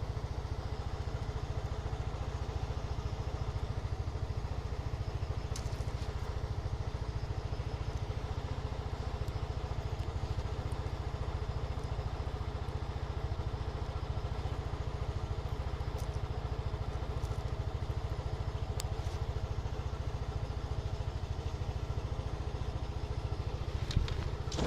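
A motorcycle on the move, picked up by its bike-mounted recorder: a steady low rumble of engine and road noise with a few faint clicks.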